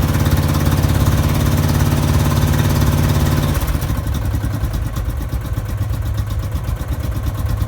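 Modified 12.5 hp Briggs & Stratton mower engine running through a straight pipe, just after its first start. About halfway through it changes from a steady run to a slower, uneven beat at a slightly lower level, as if settling to a low idle.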